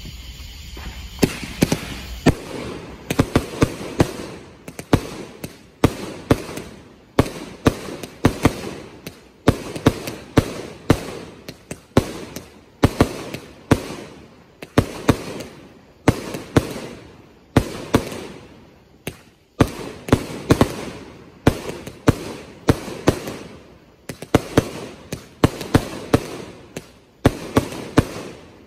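A 500-gram consumer firework cake firing a barrage. After a brief hiss, loud bangs follow one another about one to two times a second, often in pairs, with crackling between shots.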